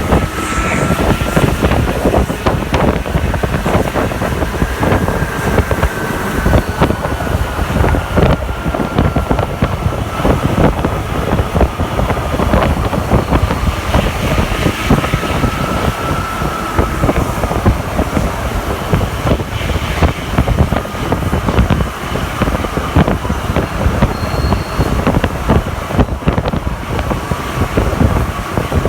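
Santiago Metro NS-93 train heard while riding on board: a steady running rumble with frequent knocks and rattles. Over it is a faint motor whine that rises and falls in pitch as the train speeds up and slows.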